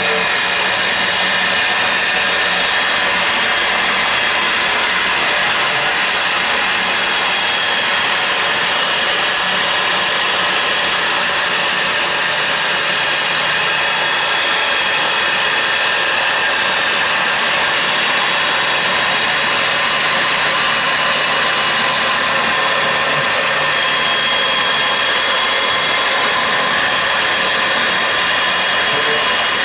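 Driven milling tool on a K-45MT CNC turning centre's power turret, running and cutting metal: a steady, unbroken machining noise with several high, constant whining tones.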